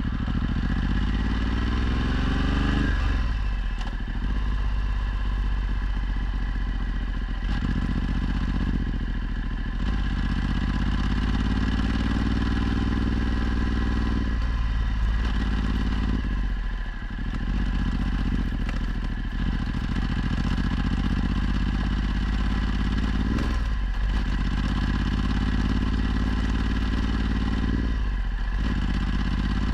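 Ducati Multistrada 1260's V-twin engine through a Termignoni exhaust, accelerating and shifting up. The revs climb, drop briefly at each gear change and climb again, repeatedly.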